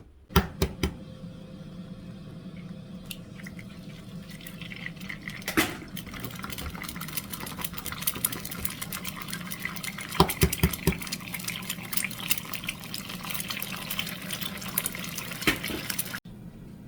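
Tap water running steadily into a kitchen sink, with the knocks and clatter of dishes or utensils several times. It starts abruptly and cuts off suddenly about a second before the end.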